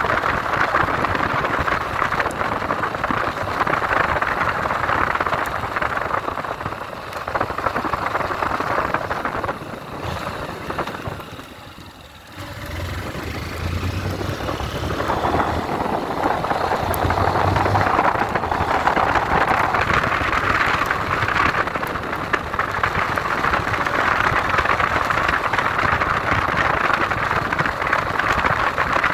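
Motorcycle riding noise: engine and rushing wind on the rider's microphone. It falls to a lull about ten to twelve seconds in as the bike slows, then builds again as it pulls away.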